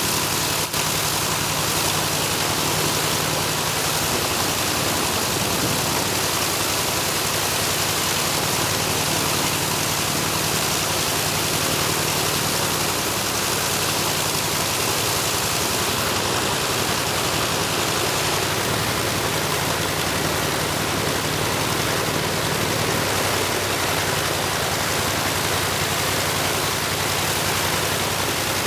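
Mitsubishi A6M5 Zero fighter's Nakajima Sakae 21 fourteen-cylinder radial engine running steadily on the ground: a dense, even noise over a low drone.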